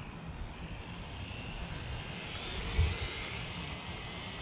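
Electric RC car's motor whining as it accelerates under throttle, the pitch climbing steadily, over a hiss of tyres on pavement. A short low knock about three seconds in.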